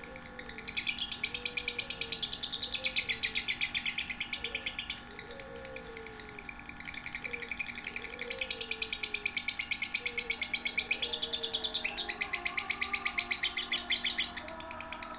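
Lovebird singing in long, rapid, high-pitched chattering trills: one burst from about a second in to about five seconds, a second from about seven and a half seconds in to near the end. Soft, low swooping calls run underneath.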